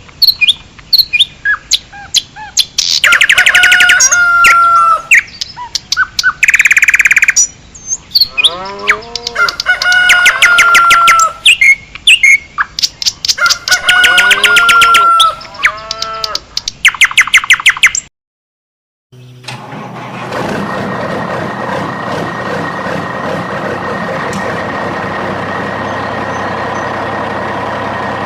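Loud bird-like chirping, whistled calls and rapid trills for about eighteen seconds. They break off, and after a second of silence a steady mechanical hum starts and holds.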